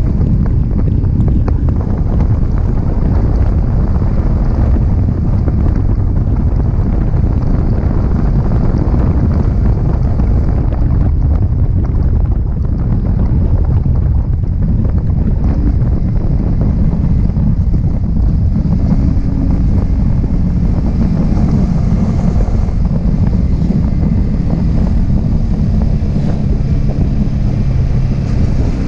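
Yamaha R15M's 155 cc single-cylinder engine running through its stock exhaust while riding, heard from an action camera on the bike. Heavy wind buffeting on the microphone is mixed in.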